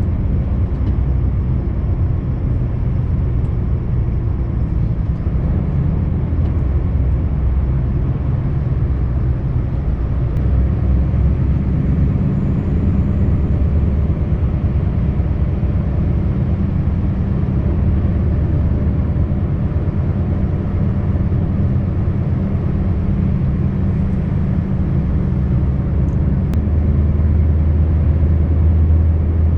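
Scania V8 truck engine and road noise heard inside the cab while driving, a steady low drone that grows deeper and a little louder near the end.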